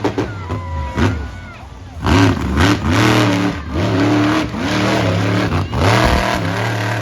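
Monster truck engine revving hard, its pitch rising and falling over and over, louder from about two seconds in.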